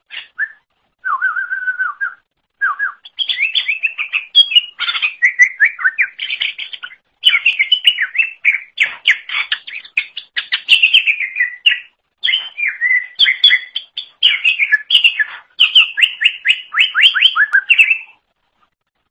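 Greater green leafbird (cucak ijo) singing loudly in long, fast phrases of varied whistles, trills and slurred notes, opening with a held whistled note and broken by a few short pauses; the song stops shortly before the end.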